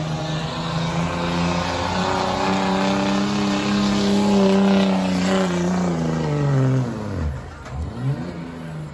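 Pulling tractor's engine running hard at high revs, its pitch holding and climbing slightly, then falling away steeply over the last few seconds as it winds down.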